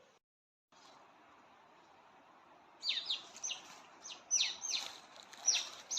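A bird calling: a run of about eight sharp chirps, each falling quickly in pitch, starting about three seconds in over faint steady hiss.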